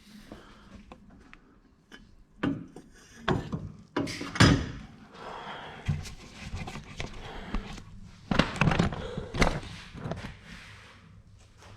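Irregular knocks and thuds with rubbing and scraping between them, the loudest knock about four and a half seconds in and a cluster of knocks about two-thirds of the way through.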